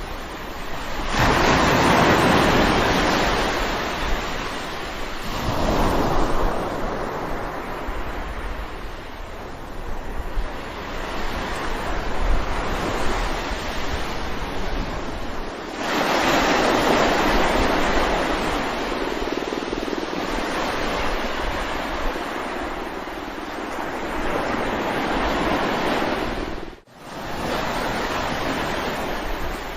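Sea waves breaking on a shore: a steady wash of surf that swells into big breaking surges three times, about a second in, around six seconds and around sixteen seconds. The sound cuts out briefly near the end.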